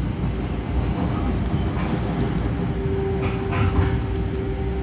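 Long Island Rail Road passenger train running, heard from inside the car: a steady low rumble of the wheels on the rails, with a few light clicks. A steady tone comes in a little over halfway through and holds.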